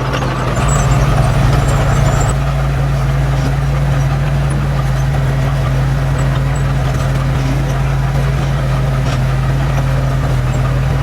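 Heavy diesel engine of earthmoving machinery running steadily with a deep hum. It is revved up briefly about a second in, then settles back to a steady run.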